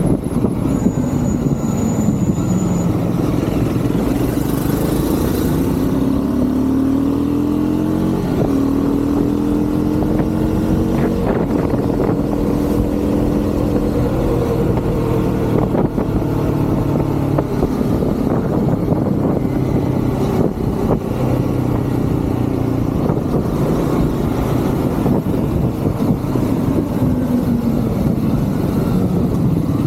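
Triumph Scrambler 400 X single-cylinder engine under way, heard from the rider's seat: its pitch drops, climbs as the bike accelerates through the gears a few seconds in, holds steady, then falls again as the throttle is eased, over steady wind and road noise.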